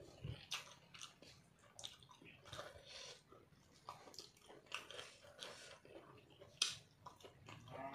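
Close-miked chewing of chicken and rice eaten by hand: a run of irregular, soft wet mouth clicks.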